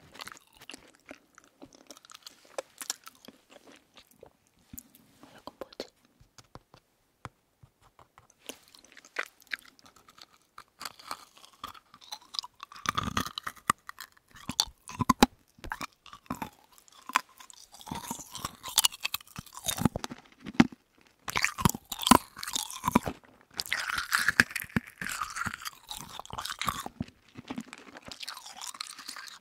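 Close-miked chewing of marshmallow and sugar-coated berry gummy candy, with the sugar coating crunching. It starts as scattered soft clicks and gets denser and louder from about halfway.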